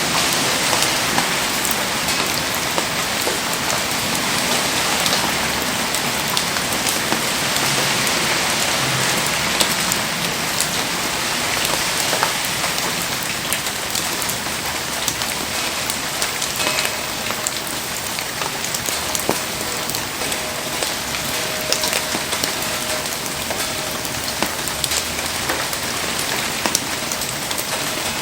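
Heavy rain falling steadily, with scattered sharp drip clicks.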